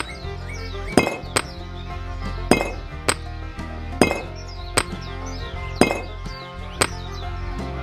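Sharp, ringing clinks of hard objects striking, about one a second at uneven spacing, over background music.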